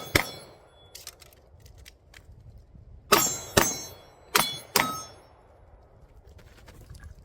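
Pistol shots at steel targets, the struck steel ringing briefly after each hit. One shot comes just after the start, then four more in two quick pairs between about three and five seconds in.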